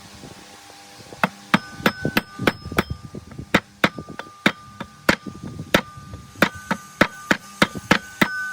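Hammer blows on metal: a run of sharp strikes starting about a second in, roughly three a second and unevenly spaced, each leaving a short metallic ring.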